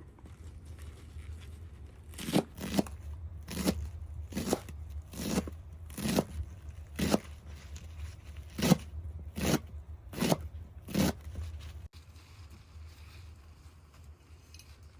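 A series of about a dozen crisp crunching strokes, roughly one a second, that stop about eleven seconds in, over a steady low hum.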